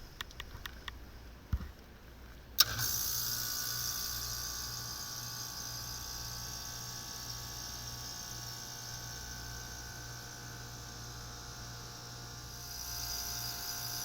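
Heat pump or air conditioner outdoor unit starting up: a few faint ticks, then a sharp click about two and a half seconds in as it kicks on, followed by the compressor and fan running with a steady hum. It is restarting after tripping on its low-pressure switch.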